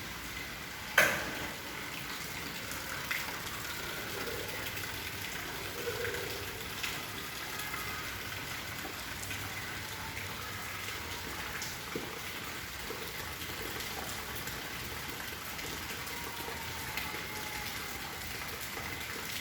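Steady rain falling, with one sharp loud knock about a second in and a few fainter ticks scattered through.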